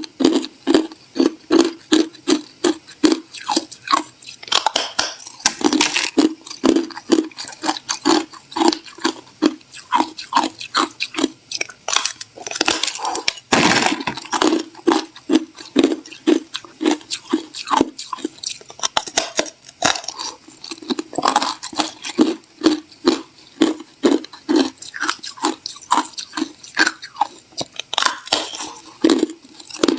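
Ice being chewed close to the microphone: a steady run of hard crunches, about three a second, with one louder crack midway.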